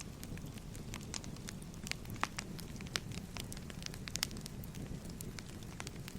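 Burning firewood crackling: a steady low rumble of flames with irregular sharp pops and snaps, several a second.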